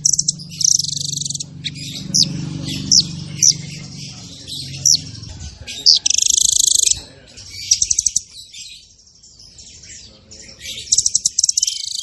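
A songbird singing a fast, dense song of sharp rising chirps and rapid buzzy trills, the kind used as a 'masteran' training song for cage birds. The song thins out about two thirds of the way through, then returns with a run of quick trills near the end.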